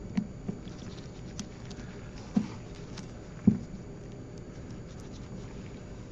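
Scattered small clicks and knocks of a tool working the screws of a diamond anvil cell as they are backed out after the gasket is indented, the loudest knock about three and a half seconds in.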